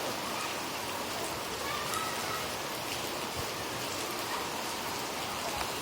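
Steady rain falling and pattering on surfaces, an even hiss with scattered drop impacts.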